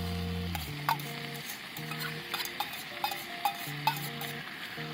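Onions frying in a pan with a steady sizzle, and a cooking utensil clicking against the pan several times as they are stirred. Background music of slow held notes plays underneath.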